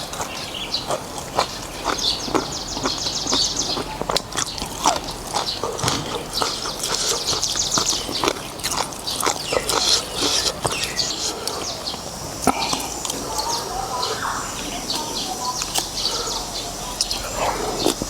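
Close-miked eating of noodles in beef soup: wet chewing clicks and lip smacks throughout, with several short slurps.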